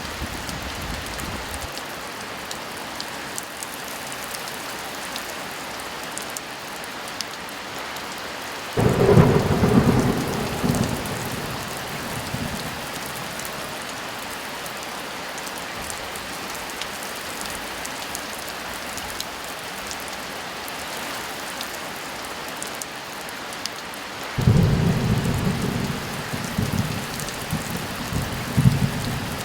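Steady heavy rain with two rolls of thunder. One breaks suddenly about nine seconds in and rumbles away over a few seconds. The other starts near the end and rolls on in several rumbles.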